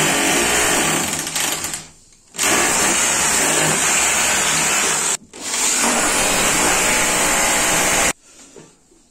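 Power drill running in three long bursts, each stopping abruptly, the second and third separated by only a short pause.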